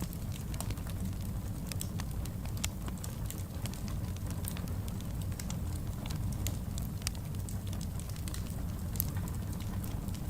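Wood fire burning in a fireplace: a steady low rumble of flames with many small, sharp crackles and pops scattered irregularly throughout.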